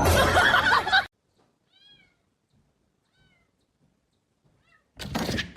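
Cat meowing: a loud, wavering meow in the first second, then a few faint short mews in near silence. A loud burst of noise comes near the end.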